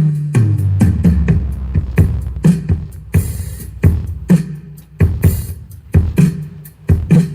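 Bass-heavy dance music played through a 2x18-inch bass-reflex subwoofer box, with a kick drum about twice a second and deep bass notes that step downward in pitch.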